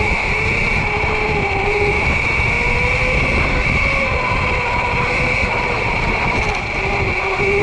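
Sur-Ron electric dirt bike under way: a steady electric motor whine whose pitch drifts up and down with speed, over a constant high whine and a low rumbling noise.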